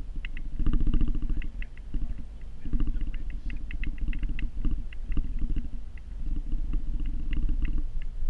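Vehicle engine running under a snow-plowing load, its low rumble swelling and easing several times, with scattered short clicks and rattles over it.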